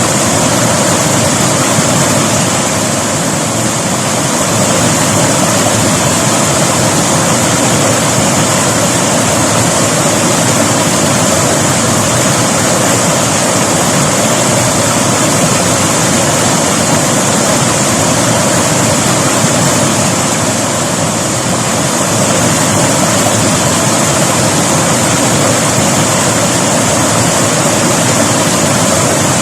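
River water rushing and splashing over rocks, a loud, steady rush with slight dips in level now and then.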